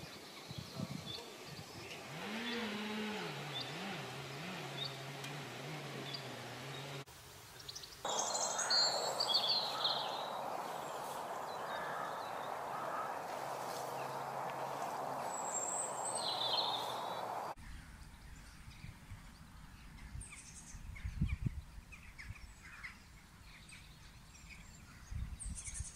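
Outdoor ambience in several spliced segments: birds chirping over a steady hiss, with a low wavering hum in the first few seconds and a few low thumps near the end.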